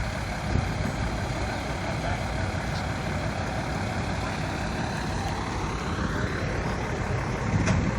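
Engine running steadily, rising in pitch near the end, with a sharp knock just before the end.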